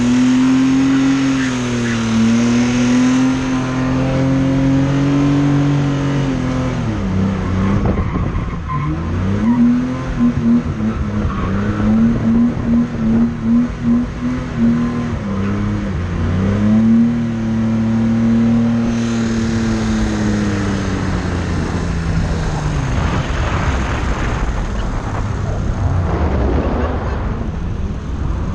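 Drift car's engine revving hard through a drift, its pitch swinging up and down with sharp drops as the throttle is lifted, and with tyre squeal. For several seconds in the middle the revs chop on and off rapidly, then the engine settles lower under a steady rush of tyre and wind noise near the end.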